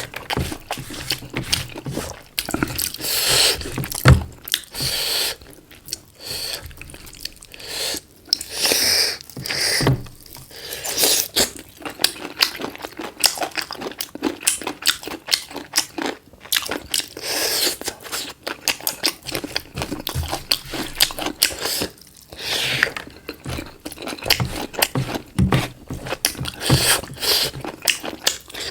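Someone chewing and crunching black chicken, with irregular wet mouth clicks and crunches and an occasional louder bite.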